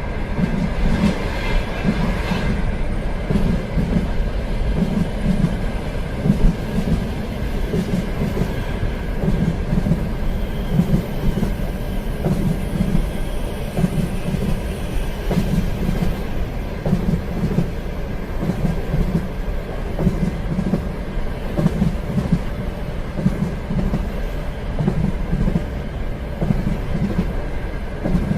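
A train running along the track: a steady rumble with a rhythmic clatter of wheels over the rail joints.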